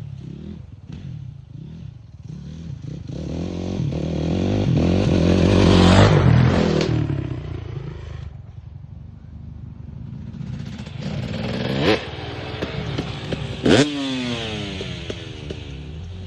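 Dirt bike engine revving as it rides past, growing to its loudest about six seconds in and then fading. Two sharp bursts of throttle come near the end.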